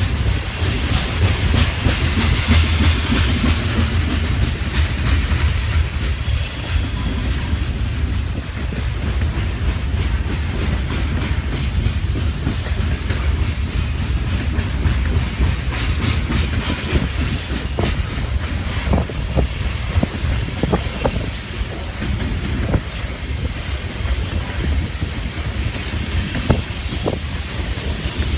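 Covered hopper cars of a BNSF grain train rolling past under a steady low rumble, their steel wheels clacking over rail joints, with clusters of clacks late on.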